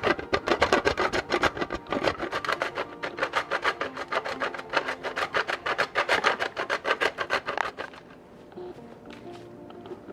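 Rapid, rhythmic scraping or rubbing strokes, several a second, stopping abruptly about eight seconds in. Soft background music plays underneath.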